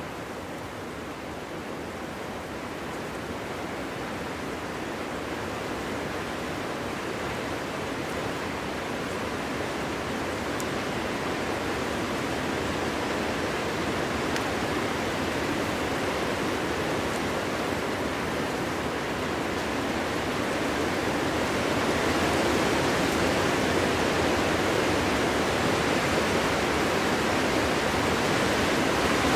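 Wind blowing as a steady rushing noise that swells gradually louder, strongest over the last third.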